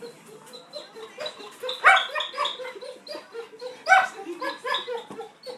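Dog whining in a rapid run of short, pitched yelping notes that sounds like laughing, with two louder yelps about two seconds in and about four seconds in.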